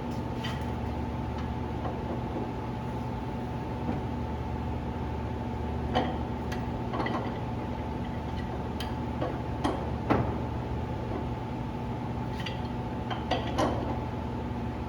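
A steady mechanical hum with a few constant tones, with scattered light clicks and knocks of hands and tools working on the plow's hydraulic cylinder. The sharpest knocks come about halfway through and near the end.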